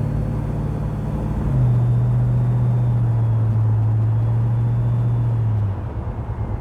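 Chevrolet Chevelle's engine droning steadily on the road; the drone steps a little lower and louder about a second and a half in, then drops away near the end, leaving an uneven road rumble.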